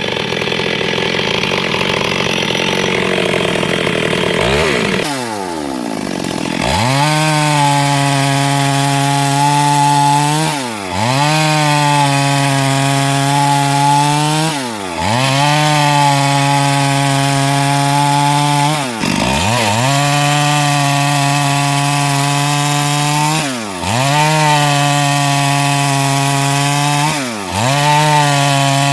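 Chainsaw running at high revs while cutting wood. For the first few seconds the sound is rougher. After that it is a steady high engine note that drops and recovers about every four seconds as the chain bites into the wood.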